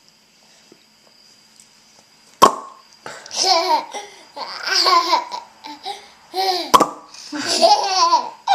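A sharp champagne-style pop about two and a half seconds in, followed by a baby's giggling laughter; a second pop at about seven seconds sets off another burst of laughter.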